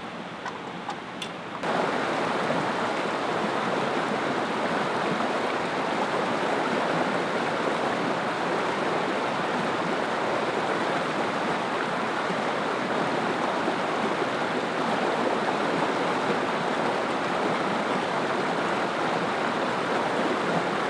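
Creek water running steadily, starting abruptly about two seconds in after a quieter moment with a few faint clicks.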